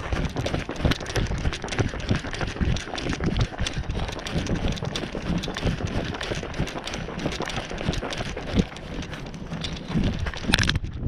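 Strong gusty wind buffeting the microphone, with an uneven low rumble and a crackling rush.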